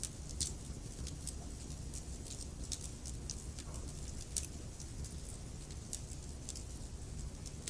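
Wood fire burning in a fireplace: irregular crackles and sharp pops from the logs over a steady low rumble of the flames, with a louder pop about half a second in and another a little past the middle.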